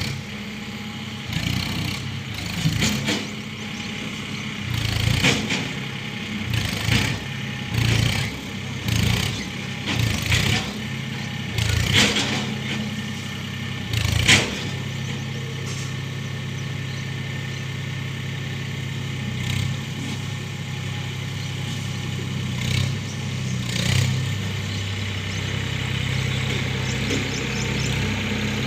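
Swaraj 963 FE tractor's diesel engine running under field work. Short louder bursts come about once a second for the first half, then it runs evenly.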